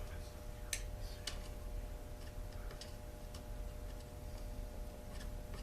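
A few irregular light clicks and taps from small chainsaw parts and tools being handled on a workbench, over a steady low hum.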